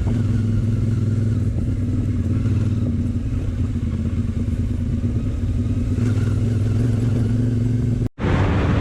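Motorcycle engine running at a steady speed, with a low, even hum and no revving. It cuts off abruptly about eight seconds in, and a different, noisier sound follows.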